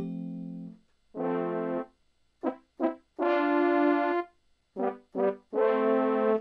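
E-mu Proteus 1XR digital sound module playing a sampled brass patch: a phrase of held notes broken by pairs of short, punchy stabs.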